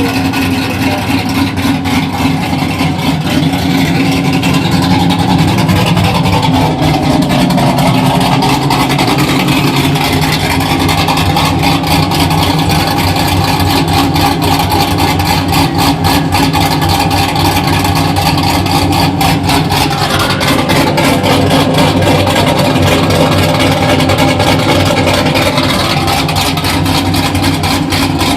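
A truck engine running steadily and loudly, its pitch shifting slightly a couple of times.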